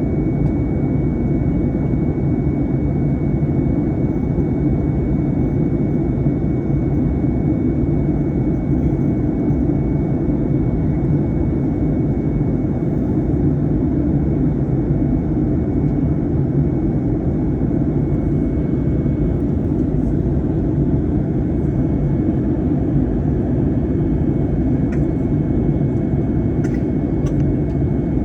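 Cabin noise inside an Airbus A321 in flight: a steady, low rumble of engines and airflow over the fuselage, with a faint steady whine and a few light clicks near the end.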